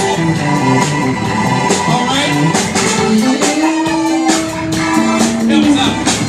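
Live gospel praise music from a church band: held instrumental notes over a steady drum beat.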